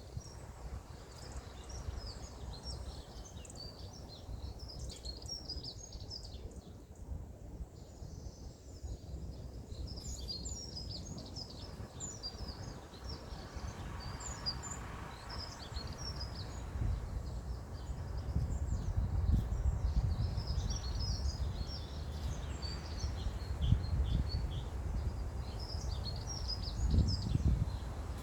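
Several small birds chirping and singing at once, short high notes overlapping throughout, over a low rumble that grows louder in the second half.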